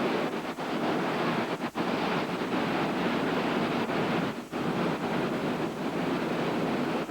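Storm wind and heavy surf from Hurricane Iniki buffeting the microphone: a steady rushing noise with a few brief dips in level.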